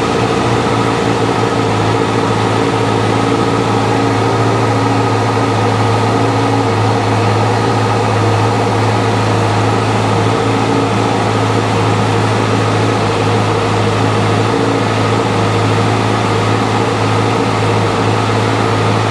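Honda CBR650F's inline-four engine idling steadily after a start-up.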